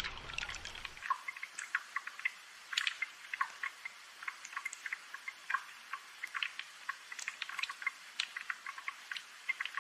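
Raindrops dripping and tapping in quick, irregular patter over a light hiss of rain; a low background rumble drops away about a second in.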